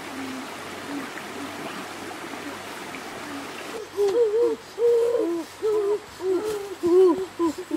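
Running stream water for the first four seconds or so. Then a quick run of low hooting calls begins, many short arching notes one after another, from a bird.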